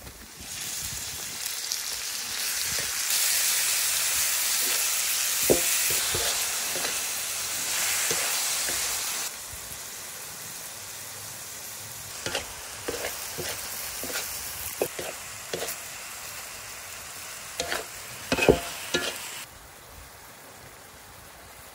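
Beef cubes sizzling in hot oil in a large wok, loudest for the first several seconds after they go in, then quieter. Later, scattered clicks and scrapes as the meat is stirred in the pan.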